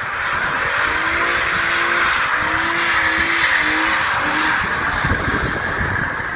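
Car tires squealing steadily for several seconds as the car is driven hard.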